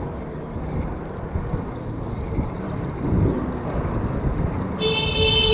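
Wind and road rumble picked up by a bicycle-mounted action camera while riding along a street. Near the end a brief high-pitched tone sounds for about half a second.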